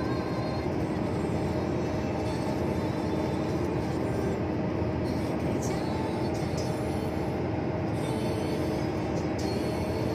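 Steady engine and road noise of a truck driving along a highway, with a constant droning hum.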